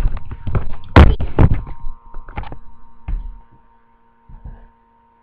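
A run of thumps and knocks, loudest near the start and about a second in, then fewer and fainter, with a faint steady hum coming in about two seconds in.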